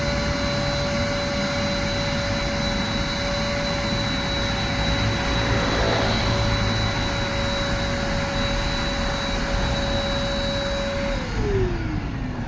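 Car-wash vacuum cleaner running with a steady motor whine and rushing suction hiss while a car interior is vacuumed. About eleven seconds in it is switched off and the motor winds down with a falling whine as the vacuuming finishes.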